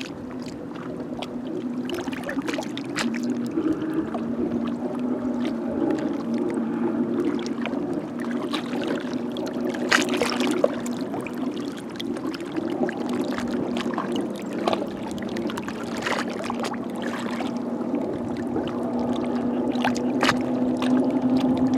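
Small waves lapping and splashing against a rocky shore, with scattered sharper splashes. A steady low hum runs underneath throughout.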